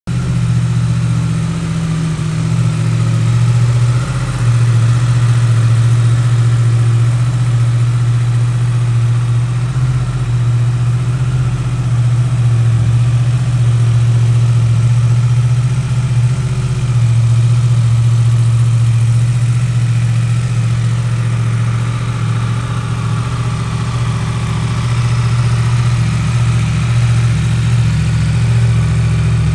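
Yamaha MT-10's 998cc crossplane inline-four idling steadily through an Akrapovic exhaust.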